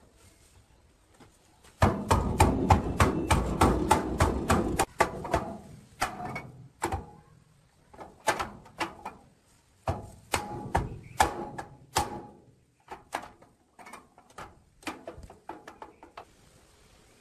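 A quick run of knocks and taps, several a second, from about two to five seconds in, then scattered groups of taps with short pauses between them.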